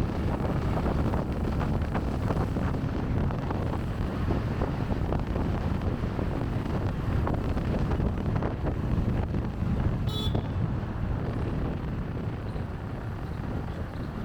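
Wind buffeting the microphone of a camera worn on a rider's chest, over the rumble of the bike and city traffic. About ten seconds in, a brief high-pitched tone sounds once.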